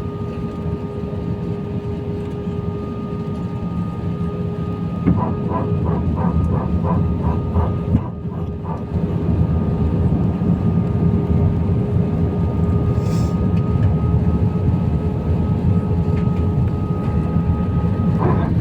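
Airbus A319 cabin noise on approach: a steady rumble of engines and airflow with a couple of steady tones. About a third of the way in comes a run of about eight quick pulses over some four seconds, and about halfway the rumble grows louder.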